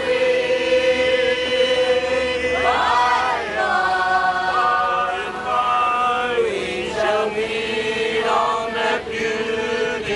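Several voices singing together in long held notes, choir-like, with the pitch shifting every second or two.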